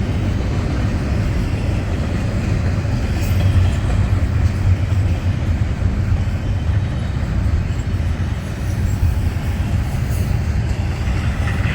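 Freight train rolling past close by: a loud, steady rumble of cars on the rails.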